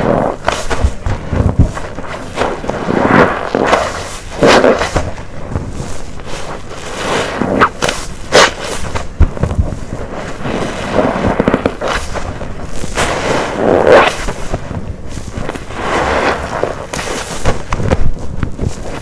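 A wet waffle-textured car wash sponge full of soapy detergent being squeezed over and over, one squeeze every second or two, each one a wet squelch with crackling foam.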